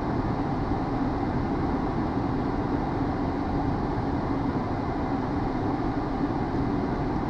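Steady flight-deck noise of a Hawker 800XP business jet in flight: rushing airflow and engine hum with a faint steady tone, unchanging throughout.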